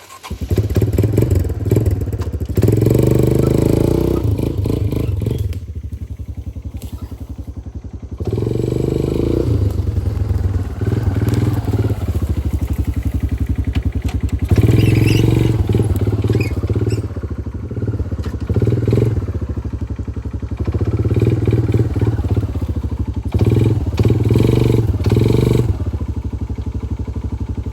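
Four-wheeler (ATV) engine running under throttle, swelling louder and easing off again every few seconds as it is driven.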